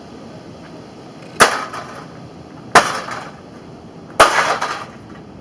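A microwave oven being struck hard three times, about a second and a half apart. Each blow is followed by a brief clatter of breaking glass and loose parts.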